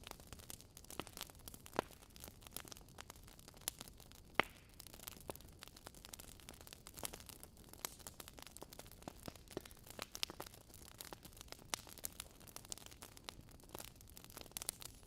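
Wood fire in a fireplace crackling: irregular sharp pops and snaps of burning logs over a soft hiss, one louder pop a little over four seconds in.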